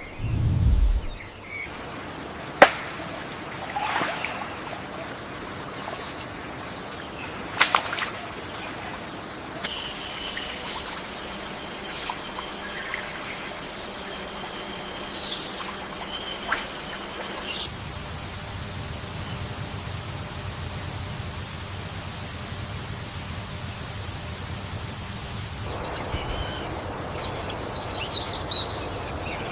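Rainforest ambience: a steady high-pitched insect drone that jumps to a new pitch abruptly a few times, with scattered sharp clicks and faint short bird chirps, and a quick cluster of bird chirps near the end.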